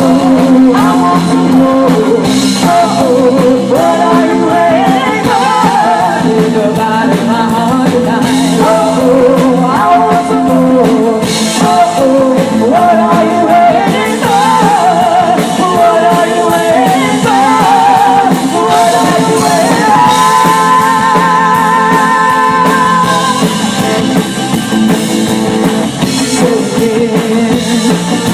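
Live rock band playing: drums and guitar under a lead melody that slides and wavers in pitch, with a long held note with heavy vibrato about twenty seconds in.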